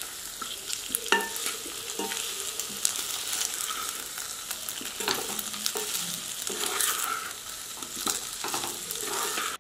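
Boiled colocasia (taro) pieces sizzling in hot oil in a pan, stirred and turned with a wooden spatula, with occasional sharp clicks and scrapes over the steady frying hiss.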